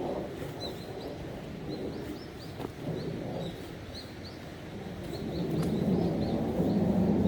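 Small birds chirping, short repeated high calls, over wind rumbling on the microphone; the wind builds near the end.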